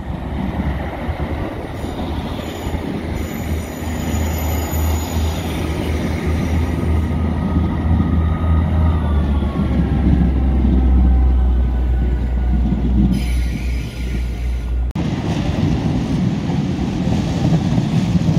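East Midlands Railway diesel multiple units running along the platform: a deep engine and wheel rumble that grows louder, with a faint whine sliding in pitch. About fifteen seconds in the sound cuts abruptly to another train passing close by, with wind on the microphone.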